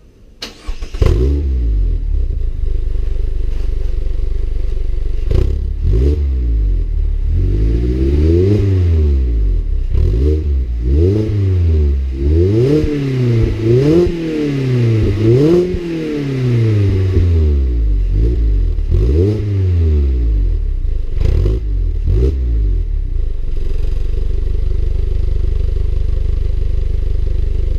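Mazda MX-5 Miata ND's four-cylinder engine through a REMUS aftermarket exhaust: it starts about a second in and is revved up and down over and over, with a few sharp cracks between revs, then settles back to a steady idle near the end.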